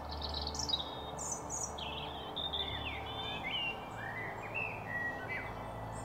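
Songbirds chirping and singing: a busy run of short, high whistled notes, some sliding down or up in pitch, over a low steady rumble.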